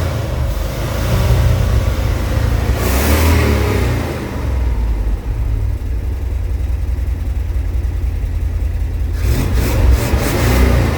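1973 Ford pickup truck's engine running with a low rumble, revved up around three seconds in and again near the end, settling lower in between.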